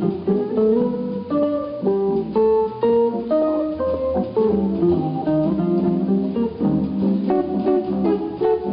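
Jazz guitar solo on a hollow-body archtop: quick single-note improvised lines, plucked note after note.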